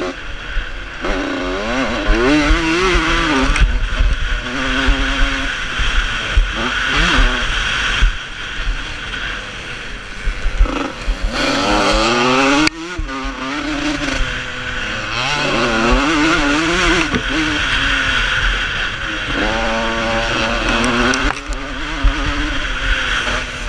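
Vintage motocross bikes racing, their engines revving up and falling back again and again as riders accelerate, shift and pass by, with several bikes overlapping at times.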